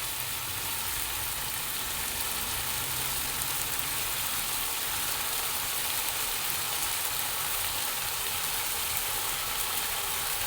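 Chicken and freshly added soaked basmati rice sizzling steadily in a hot pan, with a low steady hum underneath.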